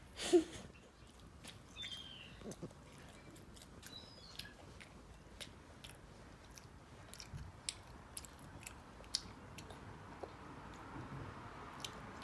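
Faint, irregular wet clicks and crunches of someone chewing food close to the microphone, with one short vocal sound at the start.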